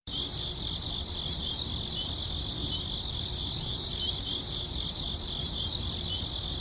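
Insects chirping: a steady high-pitched drone with quick repeated chirps over it, over a low background rumble.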